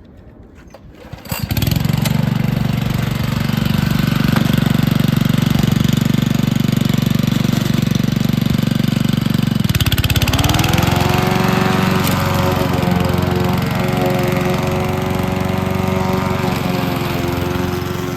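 Petrol lawn mower engine starting about a second in and running steadily. Around ten seconds in it dips briefly, then rises to a higher, steady pitch.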